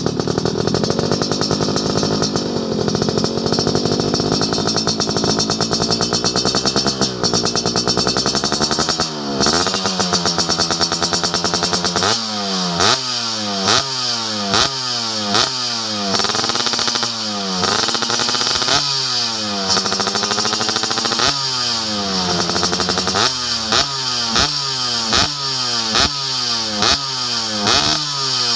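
Yamaha F1ZR two-stroke engine running through an aftermarket racing muffler. It is first held at a fairly steady speed, then from about twelve seconds in it is revved repeatedly, the revs rising and falling roughly once a second.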